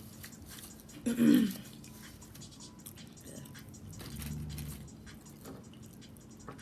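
Close-miked chewing of a sandwich, with small wet mouth clicks. There is a short loud vocal sound about a second in and a low closed-mouth hum around four seconds in.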